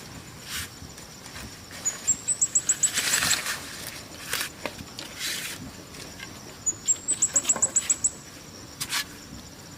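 A small bird's very high, rapid trill of about ten short notes, heard twice, with short bursts of rustling between.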